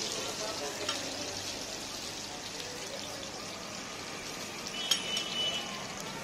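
Parottas sizzling in oil on a large flat griddle, a steady frying hiss. A metal spatula clinks on the griddle about a second in and again, louder and briefly ringing, near five seconds in.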